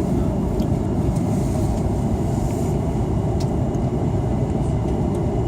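Steady low rumble of engine and air noise heard inside the cabin of an Airbus A330-300 airliner, with a few faint ticks.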